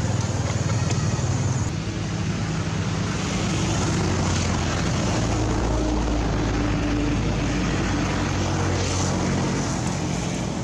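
A motor engine running steadily with a low hum, its pitch shifting slightly.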